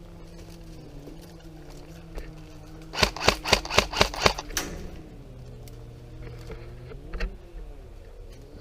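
Airsoft gun firing a quick string of six or seven sharp shots, about five a second, about three seconds in, then a single shot a few seconds later.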